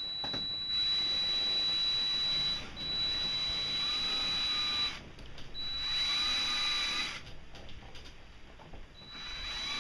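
Electric drill boring a hole through a metal gear and the rod it is mounted on, to take a pin. It runs in four spells of one to three seconds with short pauses between, a steady high motor whine under the cutting noise.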